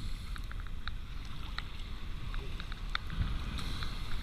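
Wind rumbling on the microphone, with scattered short clicks and splashes of water.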